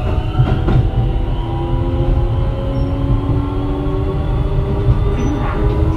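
Keio 7000 series train's Hitachi IGBT VVVF inverter and traction motors whining as the train accelerates, several tones rising slowly in pitch over the low rumble of the wheels on the rails, with a couple of knocks about half a second in.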